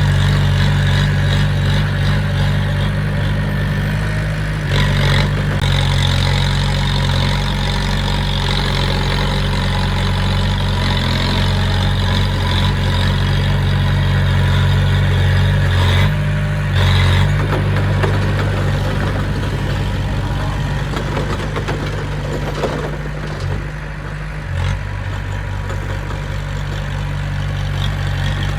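Diesel engine of a heavy earthmoving machine running steadily, its low note shifting briefly a few times.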